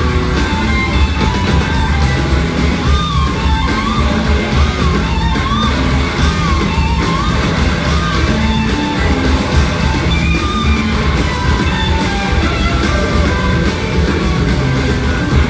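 Live rock band playing loudly, with an electric slide guitar solo: a high lead line whose notes glide up and down, repeated several times, over bass and drums.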